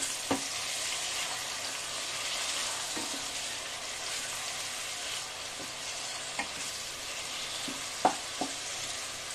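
Chopped tomatoes sizzling in hot oil with fried onions and whole spices in a kadhai while a wooden spatula stirs them: a steady frying hiss with a few short knocks of the spatula against the pan, the loudest about eight seconds in.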